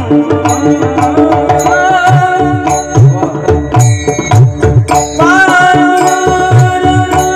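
Devotional bhajan music: a singer's voice bending through a melody over held instrumental tones, with a steady beat of hand-drum strokes and sharp metallic clicks. A new vocal phrase enters with a rising slide about five seconds in.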